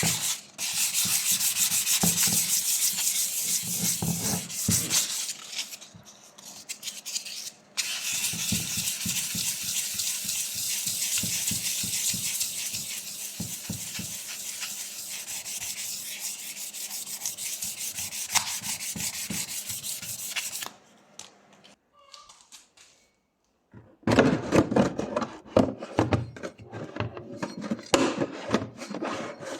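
Abrasive rubbing by hand on a brake caliper part, a dense rasping of quick strokes that stops about two-thirds of the way through. After a short pause, parts are handled with knocks and clatter.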